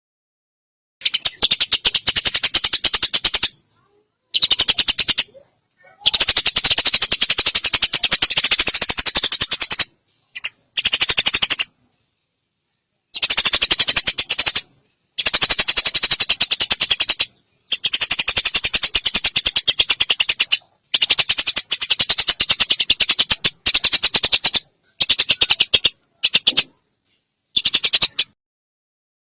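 Sparrows' fighting chatter: fast, harsh rattling calls in about a dozen bursts lasting from under a second to about four seconds, each starting and stopping abruptly.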